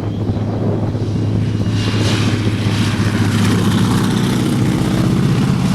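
Modified 1942 Boeing Stearman biplane flying by, its 450 hp Pratt & Whitney nine-cylinder radial engine and propeller running loud and steady. The sound grows louder and brighter from about two seconds in as the plane comes closer.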